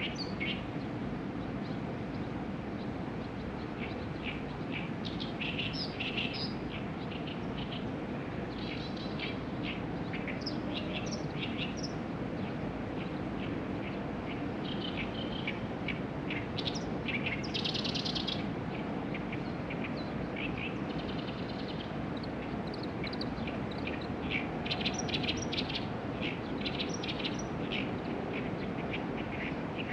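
Wild birds chirping and trilling repeatedly over a steady low outdoor background hum.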